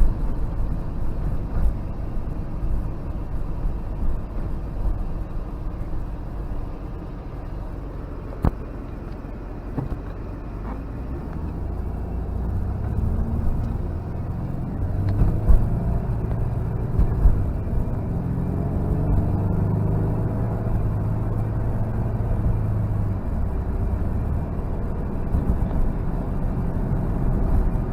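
Nissan 300ZX twin turbo's 3.0-litre V6 and road noise heard from inside the cabin while driving; from about halfway the engine note grows louder and rises as the car accelerates. A few short knocks stand out along the way.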